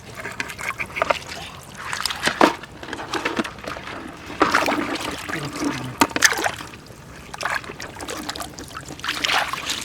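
Shallow water sloshing and splashing in irregular bursts, with trickling between them.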